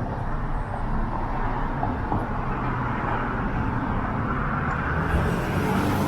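Steady road traffic on a busy city street, with cars passing, one passing closer near the end.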